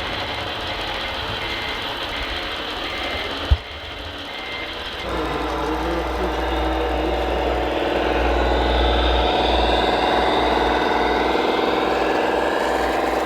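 RC model construction vehicles: a reversing beeper sounds about every two-thirds of a second over a steady engine-sound hum, then a single sharp click about three and a half seconds in. From about five seconds a louder, steady motor and engine-sound drone with a whine takes over and swells a little.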